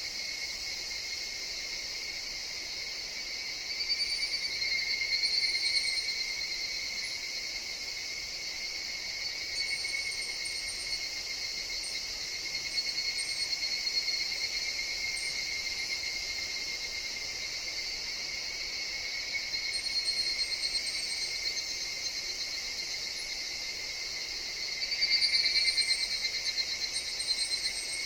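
A forest chorus of higurashi (evening cicadas) buzzing steadily, with single calls swelling up and fading away about five times, each a rapid pulsing trill.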